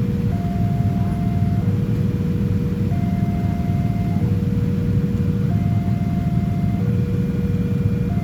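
Railway level-crossing warning alarm sounding two alternating tones, high then low, each held about a second and a quarter, over a steady loud low rumble.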